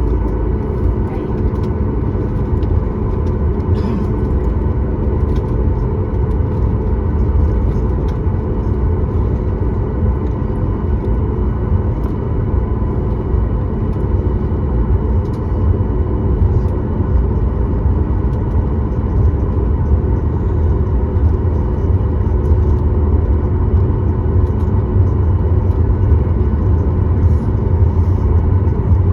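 Steady cabin noise inside a Boeing 737-9 MAX: a constant low rumble with the even hum of its CFM LEAP-1B engines, growing slightly louder near the end.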